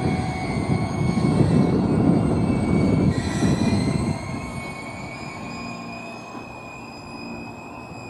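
Train noise in a rail yard: a heavy rumble that drops away sharply about four seconds in, with steady high-pitched whining tones above it and a short rising whine near the three-second mark.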